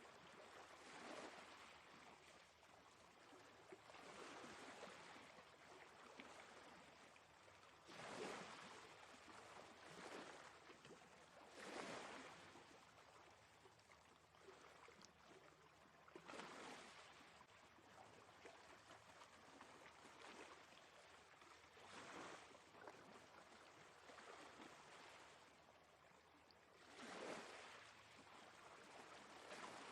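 Faint sea waves washing in, a swell of surf every four seconds or so.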